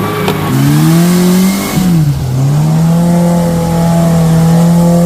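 Off-road vehicle's engine revving, its pitch climbing over the first second or two, dipping briefly about two seconds in, then holding steady under load as it works through the track.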